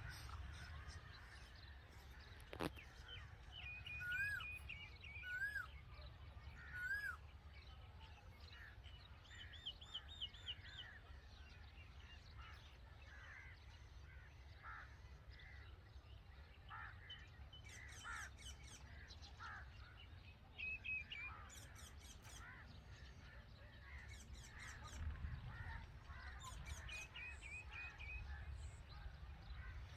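Red-vented bulbuls calling: three loud looping notes from about four to seven seconds in, then scattered short chirps and twittering, over a steady low background rumble.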